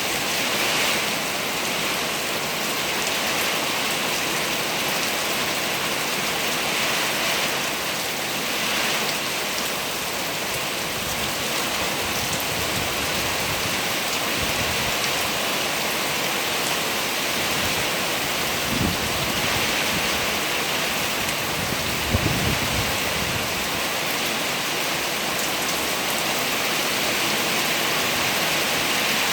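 Heavy rain falling steadily on surfaces as a dense hiss, with wind. A couple of short low rumbles or thuds break through about two-thirds of the way in.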